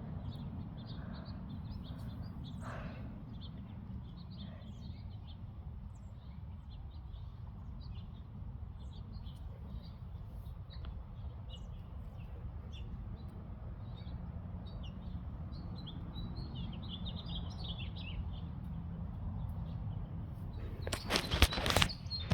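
Small birds chirping here and there over a steady low rumble, with a cluster of sharp bumps and gusts about a second before the end.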